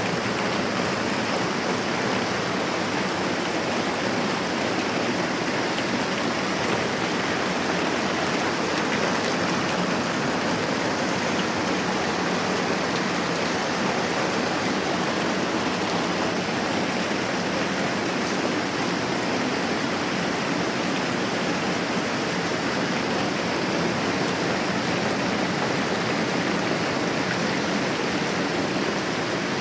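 Steady moderate rain falling, an even, unbroken hiss.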